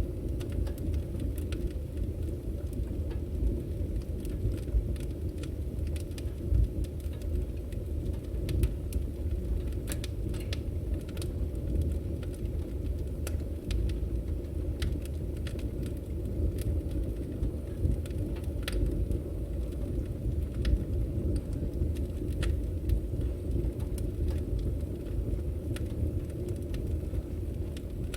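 Firewood burning: a steady low rumble of flame with scattered, irregular sharp crackles and pops.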